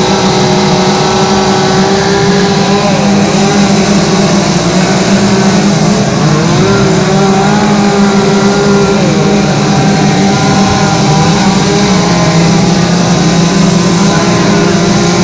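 Two-stroke chainsaw running steadily at high revs while carving wood, with other saws running at slightly different pitches.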